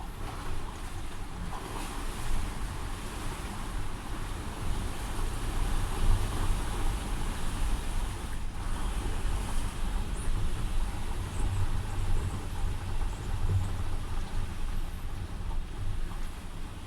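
Typhoon wind and rain storming outside: a steady low rumble and rushing noise that rises and falls in gusts.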